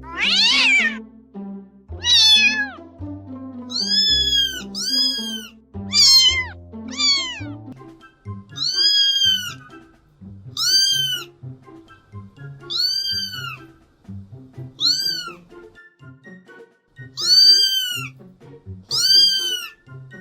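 Domestic cat meowing again and again over background music. The first few meows fall steeply in pitch; later ones are shorter arching meows, often in pairs, about every two seconds.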